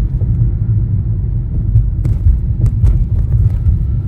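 Continuous low road rumble inside a moving car's cabin, with a few faint clicks over it.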